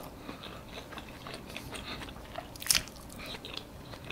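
Close-miked mouth sounds of eating soft, cream-topped French toast: quiet chewing and wet lip and finger-licking smacks, with one sharper smack a little under three seconds in.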